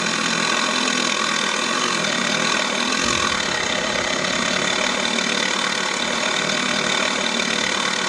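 Align T-Rex 600 radio-controlled model helicopter running steadily: an even whine made of many steady tones, holding one pitch throughout.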